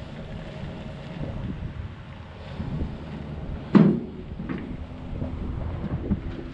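Low rumbling noise on the microphone with a few scattered knocks, one loud knock a little before four seconds in.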